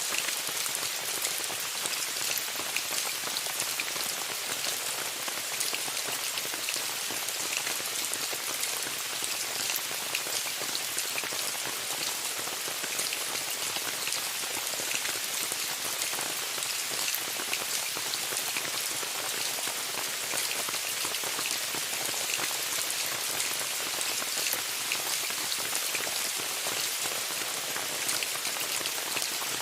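Steady rain falling on a tent, a dense, even patter of many small drops that holds constant throughout.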